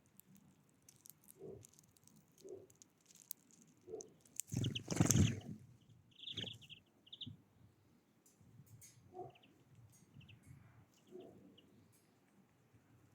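Wild birds with short high chirps and light clicking or tapping, over soft low notes repeating about once a second. A brief, louder rustling burst comes about five seconds in.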